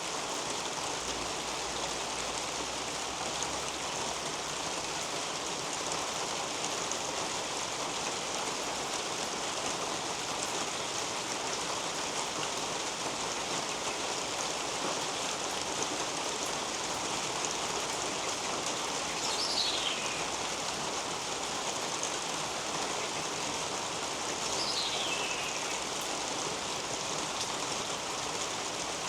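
Steady rain falling and dripping on garden leaves. Partway through, a bird gives two short falling whistles a few seconds apart.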